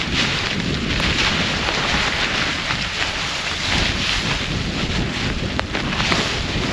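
Storm wind blowing hard and steadily, buffeting the microphone, with a few faint ticks.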